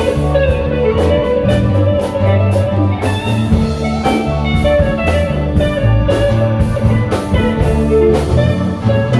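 A live band playing an instrumental passage: held melody notes over a moving bass line, with drum-kit strikes keeping time.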